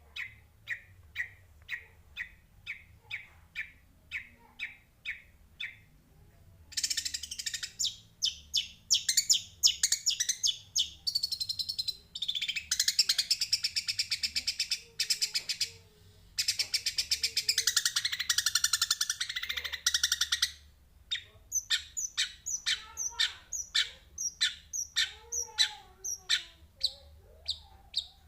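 Eurasian tree sparrow chirping: single chirps about two a second at first, then fast, dense chattering from about seven seconds to twenty seconds, then spaced chirps again.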